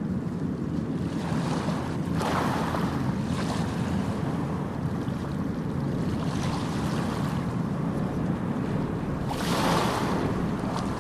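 Ocean waves washing onto a beach, with a louder wave breaking and hissing about two seconds in and another near the end, over a steady low rumble of surf and wind on the microphone.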